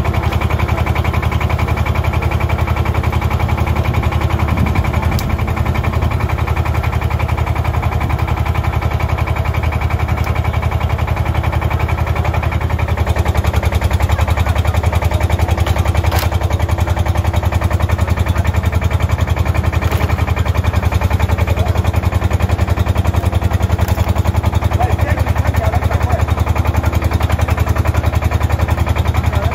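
Large diesel engine running with a fast, steady knock. It gets louder about 13 seconds in.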